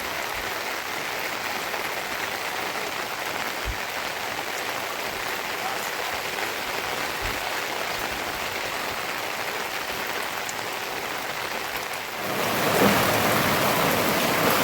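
Steady rain falling, an even hiss that gets louder about twelve seconds in.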